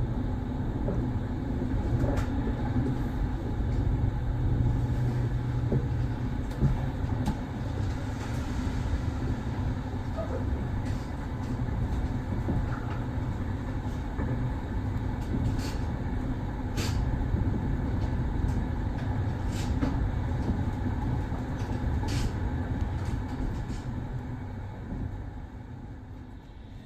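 Double-deck sleeper train running along the track: a steady low rumble of wheels on rails with scattered short clicks and rattles. It eases off a little near the end.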